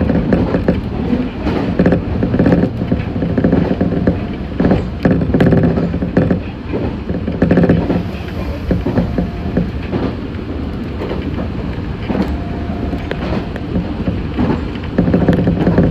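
Meitetsu 6500 series electric train running, heard from inside the front of the car. The wheels on the rails rumble and clatter continuously under a steady hum.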